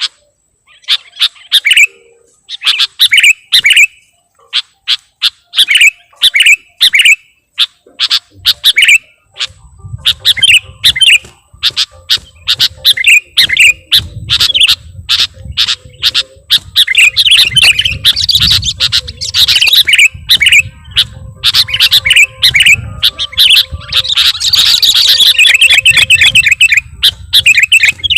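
Sooty-headed bulbul (kutilang) calling: short, bubbly chirping phrases repeated over and over, coming thicker and overlapping in the second half. A low rumble sits underneath from about nine seconds in.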